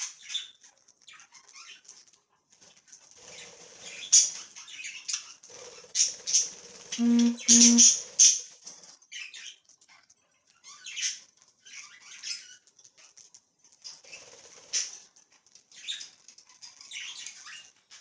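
Pet budgerigars chattering and chirping in short, scattered high-pitched bursts while they eat treats. Two short low hums about seven seconds in stand out as the loudest sound.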